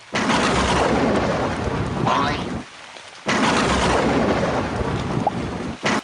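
Thunderstorm sound effect: two loud claps of thunder over heavy rain, each about two and a half seconds long, starting and cutting off abruptly with a brief gap between them.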